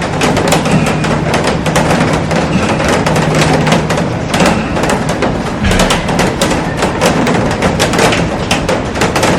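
Heavy rain falling on a glass roof and garden plants: a dense, steady rush with many sharp drop hits striking the glass.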